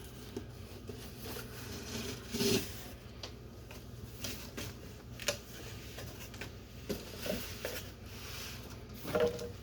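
Box and packaging being opened and handled: scattered rustling with short sharp clicks and scrapes, a louder rustle near the end.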